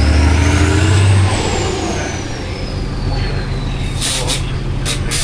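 Heavy off-road truck's diesel engine working hard under load and then easing off about a second in, with a high whine rising and then slowly falling. A few short hisses come near the end.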